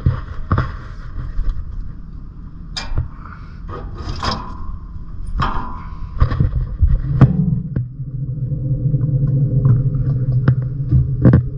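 Case IH Puma tractor running, heard from inside the cab, with a low rumble and repeated knocks and rattles. About six seconds in the engine note rises and then holds a steady drone.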